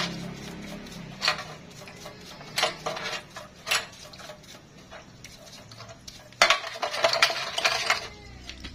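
Sharp metallic clinks and scrapes of steel tools against a motorcycle rear wheel ball bearing as it is taken apart to get at its steel balls. A few single clinks, then a quick run of them about six seconds in.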